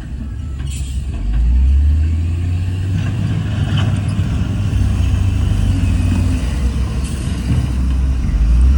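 Heavy diesel engine of earthmoving equipment running steadily with a deep low rumble that swells about a second and a half in. A couple of faint knocks sound over it.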